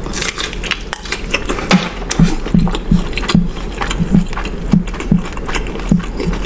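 Close-up eating sounds: crunchy food being bitten and chewed, with many sharp crunches over a steady chewing rhythm of about two chews a second.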